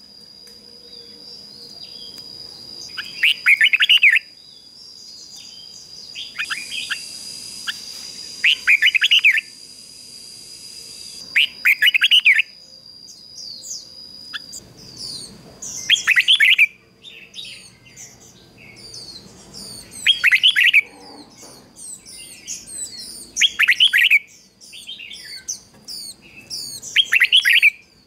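Red-whiskered bulbul singing loud, short, warbling phrases of about a second each, repeated every three to four seconds. A steady high-pitched whine runs under the first half and stops about halfway. Fainter, quick high chirps fill the gaps in the second half.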